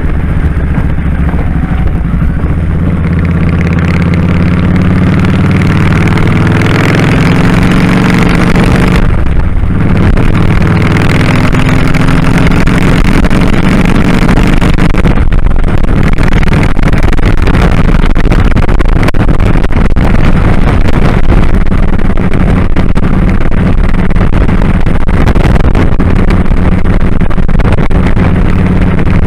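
Kawasaki Drifter 1500 V-twin motorcycle engine accelerating through the gears: its pitch rises over the first several seconds, breaks briefly for a gear change about nine seconds in and again around fifteen seconds, then settles to a steady cruise. Wind rushes over the microphone throughout.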